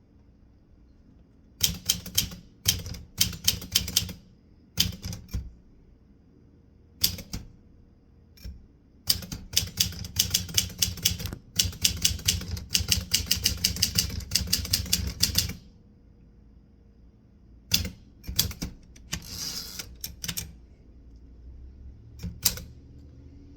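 Typewriter keys striking in spurts of rapid clicks with pauses between, the longest run lasting about six seconds near the middle. A brief rasping sound comes a few seconds before the end.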